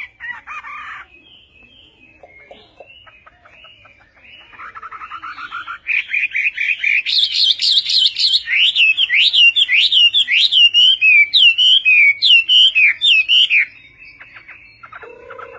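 A songbird singing a varied song: soft scattered chirps at first, then a loud run of rapid repeated notes followed by a string of quick whistled, slurred phrases that stops abruptly about two seconds before the end.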